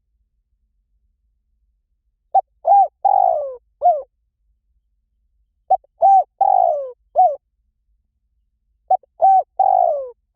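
Spotted dove cooing: three four-note coo phrases, each about one and a half seconds long, repeated roughly every three seconds after a silent start. The last phrase is cut off at the end.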